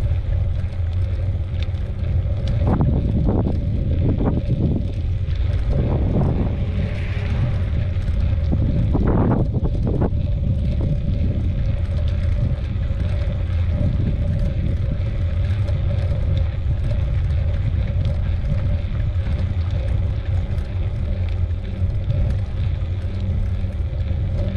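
Wind rumbling on the microphone of a moving mountain bike, mixed with tyre noise on the trail. There are a few rougher bursts in the first ten seconds.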